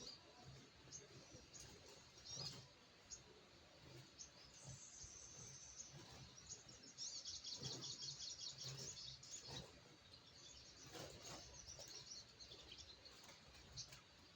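Crimson sunbird giving high, thin chirps, with a fast, rapid trill about halfway through. A few faint knocks are also heard.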